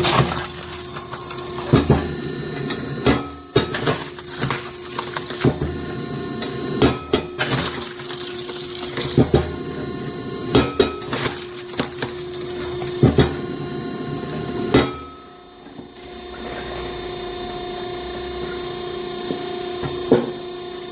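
Hydraulic firewood splitter running with a steady hum while it splits oak rounds with a cross-shaped blade. Sharp cracks and knocks of wood splitting and pieces landing come every second or two, and the sound dips briefly about two-thirds of the way through.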